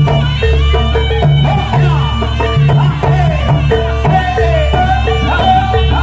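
Loud East Javanese jaranan music. Drums and a repeated struck note keep an even beat over a heavy bass, with a melody sliding up and down in pitch.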